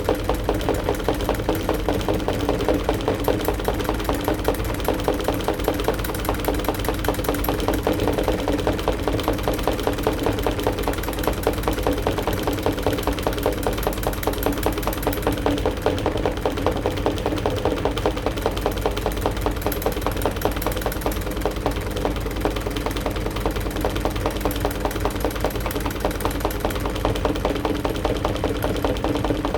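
AQUA AQW-DX12M front-loading drum washing machine running mid-cycle with a load of laundry, a steady motor hum with a fast, even mechanical pulsing, picked up through the machine's top panel.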